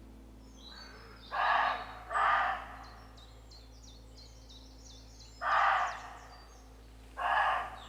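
Roe deer barking: four short barks, two close together about a second and a half in, then two more spaced out near the middle and end. Small birds sing thinly between the barks.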